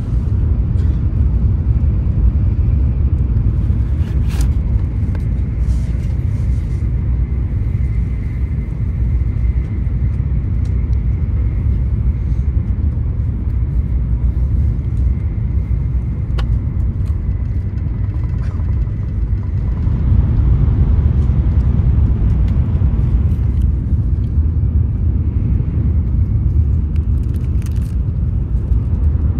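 Steady low rumble of a Shinkansen bullet train's cabin while the train runs, with a few light clicks and rustles of packaging being handled.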